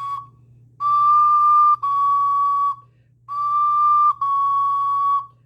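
Ocarina playing two pairs of held notes, each about a second long: high D then D-flat, a semitone lower, to show the half-step difference.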